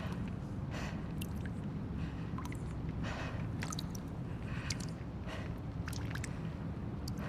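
Abandoned-building ambience: a steady low rumble with soft hissing swells coming and going, and scattered small drips and ticks.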